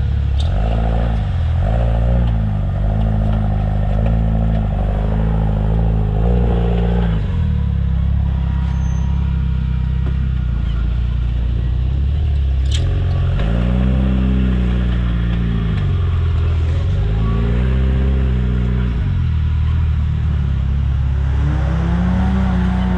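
Full-size rock-crawling buggy's LS V8 engine running with repeated throttle blips, its pitch rising and falling every few seconds while crawling. A single sharp click comes a little past the middle.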